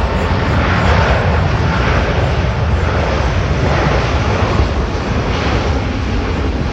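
Airbus A330-900neo's Rolls-Royce Trent 7000 turbofan engines at takeoff thrust: loud, steady jet engine noise with a deep rumble underneath.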